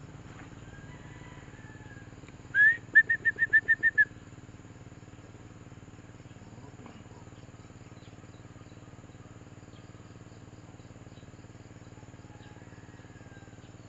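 A bird calling once: a rising note, then about eight quick repeated chirps at one pitch, lasting just over a second. Faint steady outdoor background noise with a light insect buzz runs through the rest.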